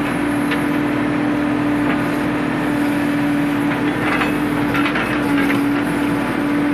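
Diesel engine of an L&T Case 770 backhoe loader running steadily at work with a droning tone, with a few brief clatters about four and five seconds in.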